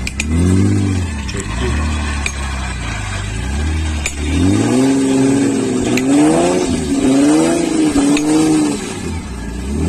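Off-road 4x4's engine revving hard under load as it climbs a steep muddy bank, its pitch surging up and down again and again. The revving is loudest and most sustained in the second half.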